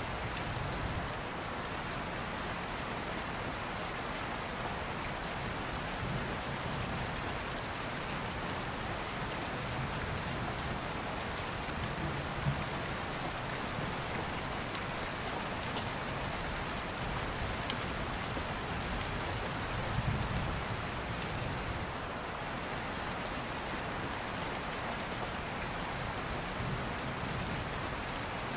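Steady rain, with soft low rumbles of distant thunder now and then and a few sharp pops from a crackling open fire.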